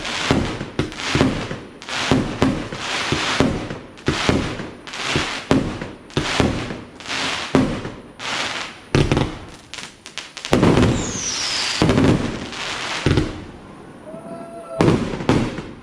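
Fireworks battery (cake) firing shot after shot, about two a second, each bang followed by a hissing, crackling burst. The barrage thickens about two thirds of the way through with a short falling whistle, eases briefly, then more shots near the end.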